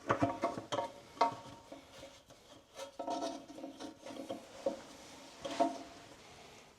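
Faucet and drain parts being handled and tightened into place: scattered clicks and knocks with short spells of scraping and rubbing.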